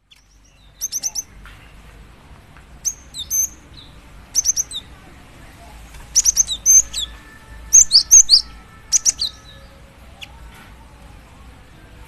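Female cinereous tit (gelatik batu) calling for a male: short groups of quick, high chirps, three to six notes at a time, repeated about every second or two.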